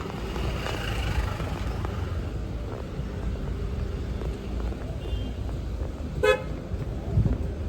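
A single short car horn toot about six seconds in, over a steady low rumble of traffic and wind.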